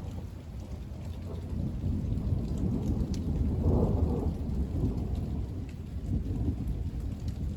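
Rolling thunder rumbling low under steady rain, swelling to its loudest about halfway through and then easing off.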